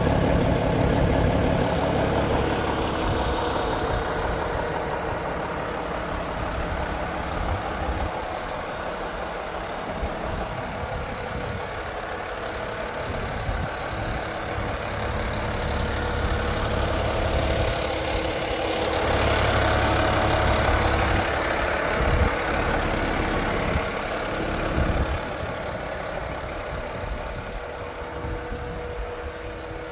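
Volvo FH 500 truck's 13-litre six-cylinder diesel engine idling steadily, its level rising and falling, loudest near the start and again about twenty seconds in.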